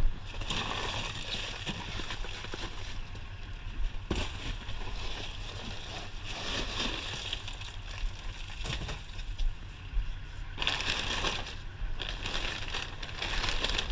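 Rummaging through plumbing scrap in a dumpster: irregular knocks, scrapes and rustling of debris being shifted by hand, louder for a couple of stretches near the end.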